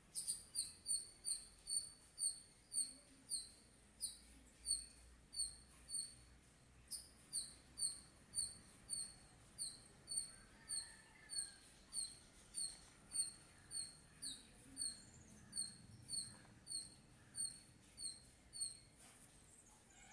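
A small animal's high, sharp chirp call repeated about twice a second, pausing briefly about six seconds in and stopping shortly before the end.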